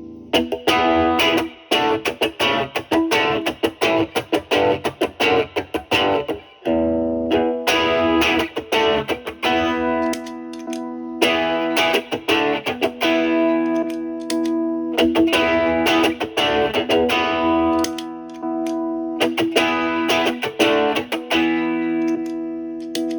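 Stratocaster electric guitar through an MXR Duke of Tone overdrive pedal in its distortion mode, played into a Marshall amp's clean channel: a driven guitar riff of quick picked chord stabs mixed with held, ringing chords.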